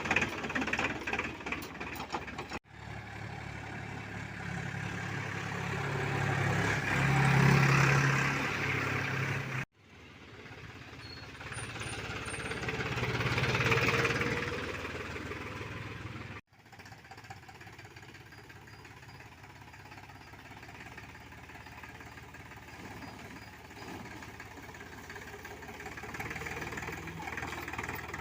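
Diesel engine of a Powertrac Euro 45 Plus tractor running. It grows louder and fades away twice and breaks off abruptly a few times.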